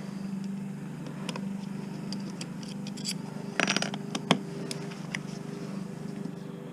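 Hand tools working on a dishwasher's motor and wiring for scrap: scattered metallic scrapes and clicks, with a denser run of scraping about three and a half seconds in, over a steady low hum.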